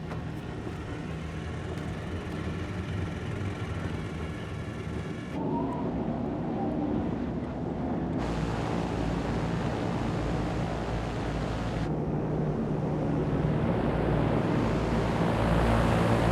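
Propeller aircraft engines droning steadily under rushing wind noise, with the sound shifting abruptly a couple of times and growing louder toward the end.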